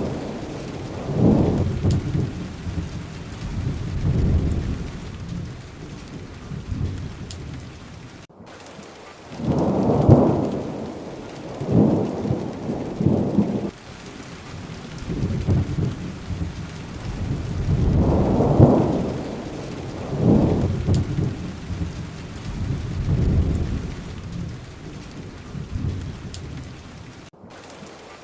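Steady rain falling, with thunder rolling in low rumbles that swell and fade every several seconds.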